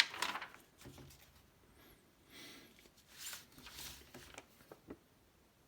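Glossy magazine pages being handled and turned, with a few soft paper swishes and light clicks.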